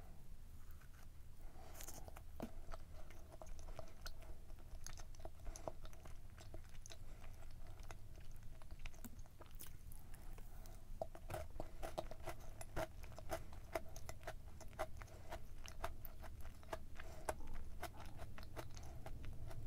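Close-up mouth sounds of chewing a dense, fudgy chocolate brownie muffin with Oreo cookie pieces. Many small wet clicks come steadily, thickest in the second half.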